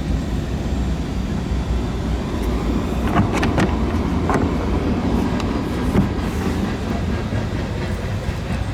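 Steady low rumble of background noise, with a few light clicks and knocks about three to four and a half seconds in and again around six seconds.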